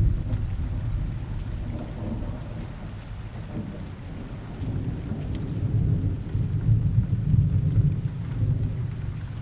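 Steady rain with low rolling thunder rumbling underneath, the rumble easing after the start and swelling again about halfway through.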